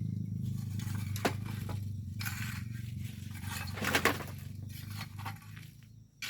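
Hand tools scraping and digging through volcanic sand and stones in irregular strokes, the loudest scrape about four seconds in. Under it runs a low steady hum that fades out a little after five seconds in.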